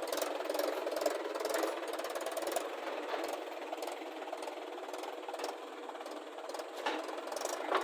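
Diesel engine of a backhoe loader or tractor running steadily with a dense clatter, with a couple of sharper knocks near the end.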